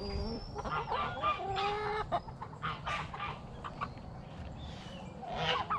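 Chickens clucking and calling in short, broken bursts, busiest in the first two seconds and again just before the end.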